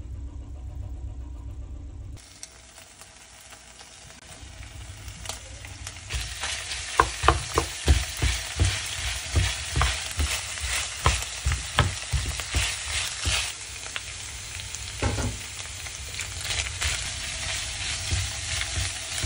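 Meat sautéing in a frying pan: a sizzle that swells after about two seconds, then a spatula stirring, with a run of sharp knocks against the pan that are thickest in the middle.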